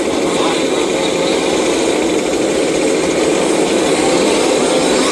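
Several 1/5-scale RC cars' small two-stroke petrol engines running together during a race, a steady overlapping engine drone with pitches rising and falling slightly as the cars are driven.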